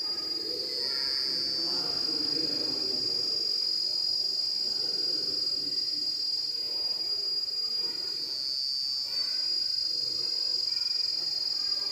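Insects droning: one steady, high-pitched, unbroken buzz that swells a little about a second in and again around eight to nine seconds, over a faint low background murmur.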